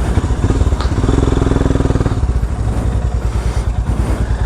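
Royal Enfield Himalayan's single-cylinder engine running with an even pulsing beat, which swells briefly for about a second near the start.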